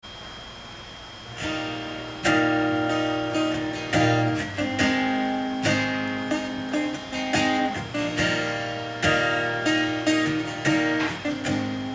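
Guitar playing the instrumental intro of a country song, chords struck and left to ring. It comes in about a second and a half in, with a strong strike roughly every one and a half to two seconds.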